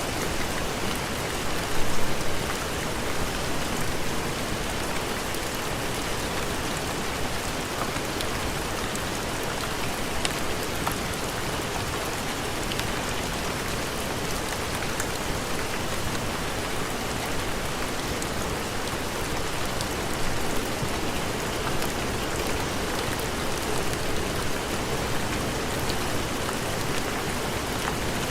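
Steady heavy rain, a dense even hiss, with a brief louder burst about two seconds in.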